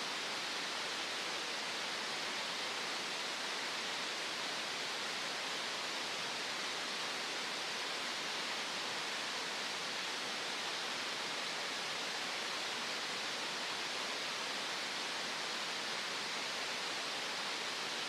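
Green noise: a steady, even hiss that does not change, with most of its energy in the upper-middle range and little bass.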